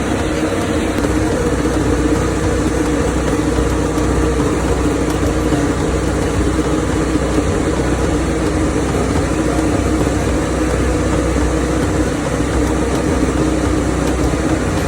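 An engine idling steadily, with an even drone and no revving.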